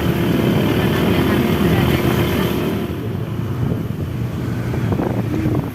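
A motor vehicle's engine running steadily, with a steady hum that fades out a little over halfway through.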